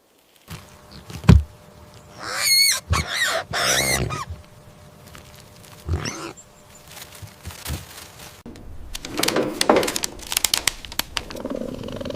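A run of loud animal calls, several in quick succession with a wavering pitch, followed by a cluster of sharp clicks and crackling noises near the end.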